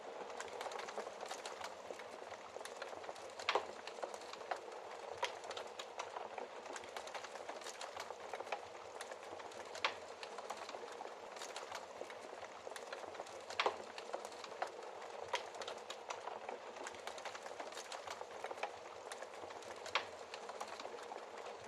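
Wood fire burning in a fireplace: a steady soft hiss with irregular crackling and a few sharper pops, the strongest about three and a half, ten, thirteen and a half and twenty seconds in.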